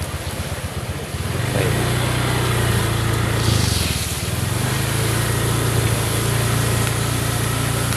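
Small motorcycle engine ticking over unevenly, then picking up about a second and a half in and running at a steady speed. A brief hiss comes through about three and a half seconds in.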